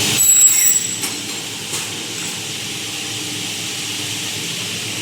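Semi-automatic dual circular saw machine for aluminium profiles running: a brief high metallic ringing in the first second, then a steady hiss over a low hum.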